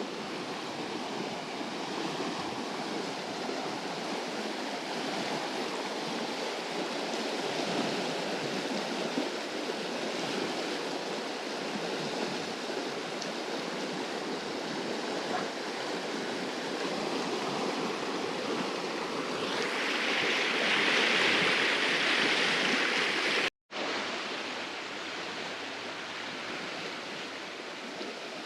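Rushing glacier-fed mountain stream, a steady wash of fast water. It turns brighter and hissier for a few seconds near the end, then drops out for an instant before the same rush resumes.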